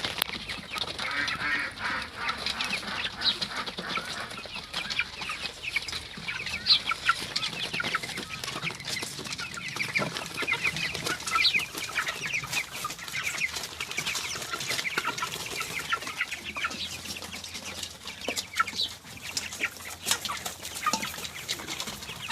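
A flock of white broiler chickens clucking and cheeping continuously, many short high calls overlapping.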